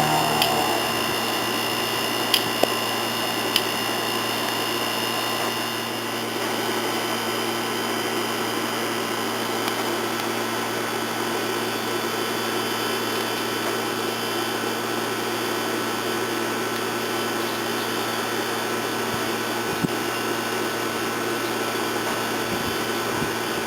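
Steady, unchanging machine-like hum, with a few light clicks in the first few seconds.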